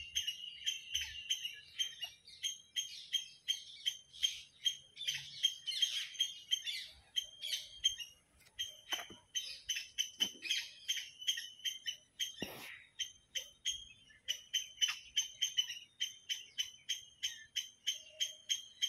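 A bird chirping rapidly and over and over, short high chirps at about three a second, with a brief sweeping squeak about twelve and a half seconds in.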